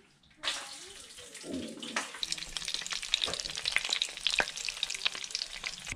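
Coated trout pieces frying in hot oil in a pan: a dense sizzle with many small crackling pops, starting suddenly about half a second in.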